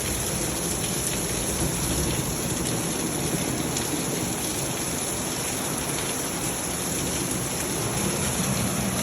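Heavy rain pouring down and splashing, a steady downpour.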